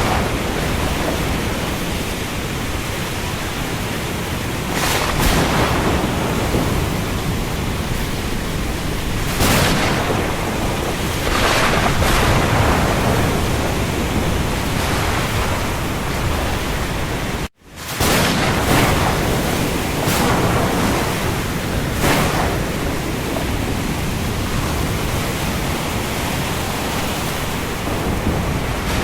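Steady heavy rain over the sea, a continuous hiss with louder surges every few seconds. The sound cuts out for a split second about two-thirds of the way through, then resumes.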